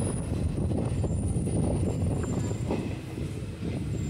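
Passenger train running slowly, heard from on board: a steady low rumble of wheels on the rails with a few faint knocks, easing a little about three seconds in.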